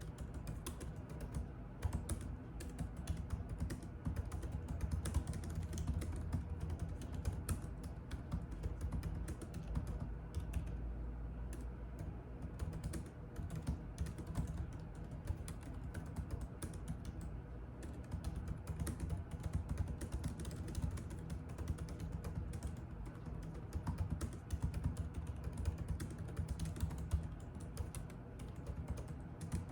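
Computer keyboard typing: quick, irregular key clicks going on without a break, over a low steady hum.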